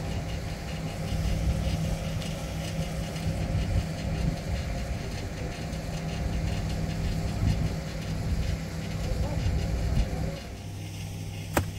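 An engine running steadily, its sound dropping to a smoother, quieter hum about ten seconds in; one sharp click near the end.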